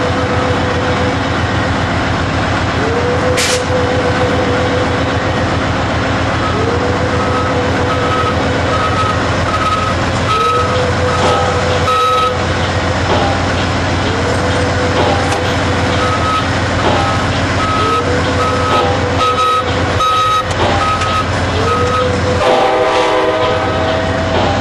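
Steady running rumble of a train, with a short rising tone repeating every three to four seconds and two runs of quick beeps, about two a second, each lasting several seconds.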